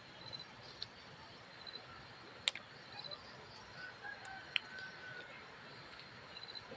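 A distant bird gives a drawn-out call about four seconds in, over steady insect chirping, with two sharp clicks.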